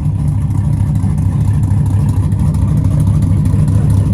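Car engine idling steadily with a low, pulsing beat.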